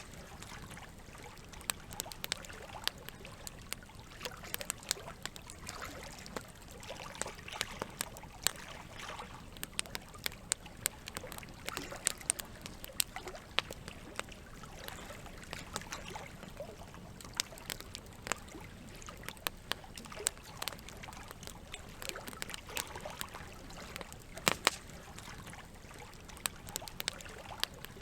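Campfire crackling, with sharp pops at irregular intervals, a few louder than the rest, over a steady sound of running water.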